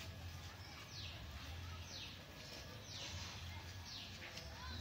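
A bird's high call, repeated about once a second, each note sliding quickly downward in pitch, over a faint steady low rumble.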